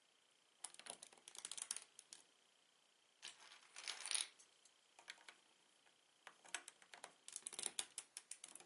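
Small hard plastic Lego bricks clicking and rattling as they are handled, in three quick bursts of clicks with short pauses between.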